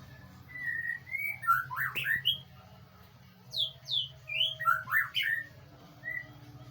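White-rumped shama (murai batu) singing: two phrases of clear whistled notes sliding up and down, each about two seconds long, then a single short note, over a low steady hum.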